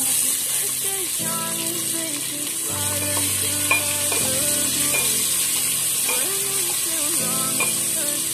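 Sliced onions frying in hot oil in a pan, a steady sizzle that starts as they drop in, with a wooden spatula stirring them. Soft background music with held notes plays along.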